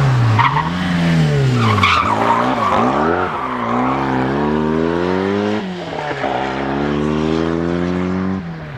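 Rally car engine revving hard. Its pitch swings up and down quickly several times in the first two seconds, then climbs steadily twice with a short drop between, and tyres skid as the car goes.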